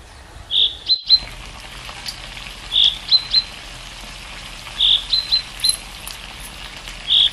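A bird repeating the same short phrase about every two seconds: one longer note, then two quick high chirps. Under it is a steady sizzle of chilli chicken frying in an iron pan over a wood fire.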